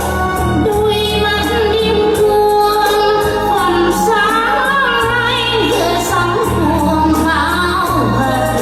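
A woman singing a song with vibrato over instrumental backing music with a held bass line.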